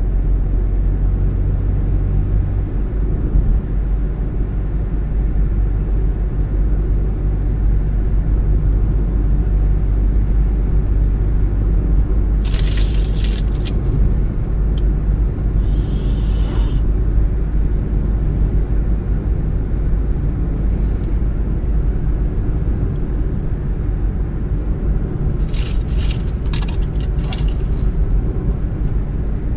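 A car driving along a road, with a steady low rumble of engine and tyres. Short bursts of hiss come about 13 seconds in and again near 26 seconds.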